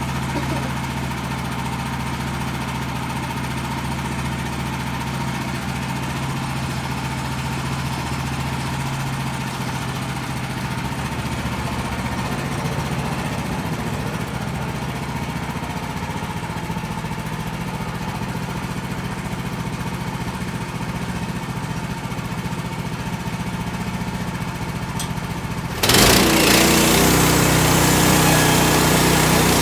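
Woodland Mills HM130 portable band sawmill's gas engine running steadily at a low throttle. About 26 seconds in, the sound jumps abruptly louder and harsher.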